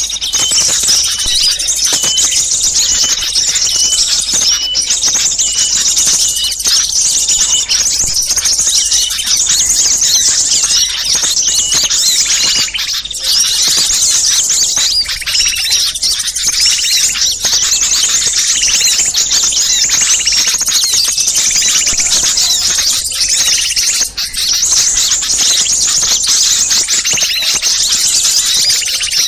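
Dense, overlapping chorus of many small birds, with high chirps and rapid trills crowding together without a break: a noisy mixed small-bird lure call of the kind played to draw wild small birds such as sunbirds.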